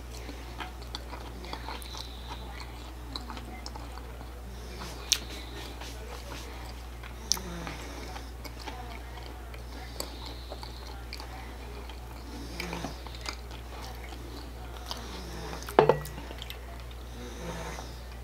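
A man chewing a mouthful of french fries close to the microphone: soft wet chewing with scattered mouth clicks and smacks over a steady low hum, and one sharp, louder click about sixteen seconds in.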